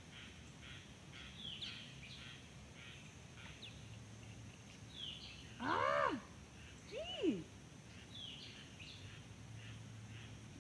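Small birds chirping in short, repeated notes, with two louder pitched calls that rise and then fall, about six and seven seconds in.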